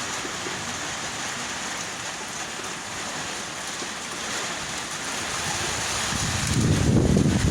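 Steady hiss of heavy rain falling. About six seconds in, a loud, rough low rumbling from wind gusting over the microphone builds and becomes the loudest sound.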